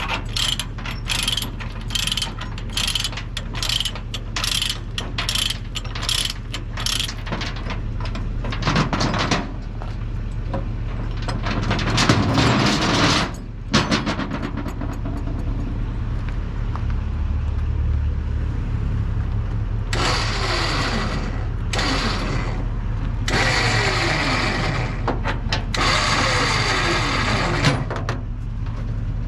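Ratchet chain binder being worked to loosen the tie-down chains, its pawl clicking about two to three times a second, over a steady low engine hum. Later, several longer rushing noises with falling tones.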